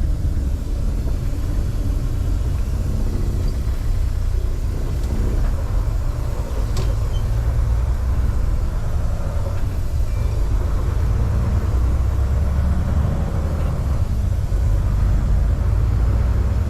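Semi-truck engine and road noise heard from inside the cab: a steady low rumble while the truck drives slowly.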